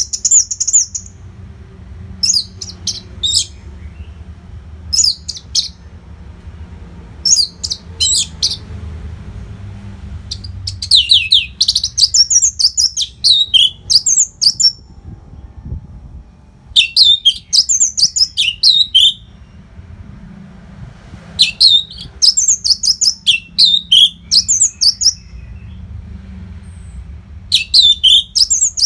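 Orange-headed thrush (anis merah) singing. Loud, high phrases of rapid notes and down-slurred whistles come every couple of seconds, the later ones running longer, over a faint low hum.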